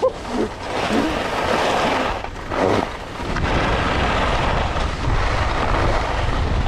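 Skis sliding over snow, a steady hiss under wind rumbling on the microphone, the rumble heavier from about three seconds in.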